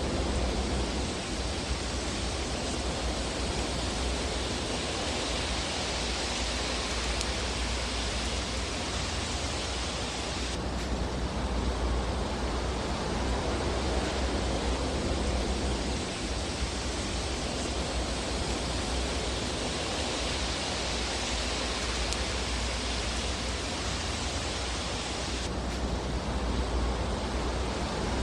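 Fire burning in a fireplace: a steady hiss over a low rumble, with no distinct crackles standing out.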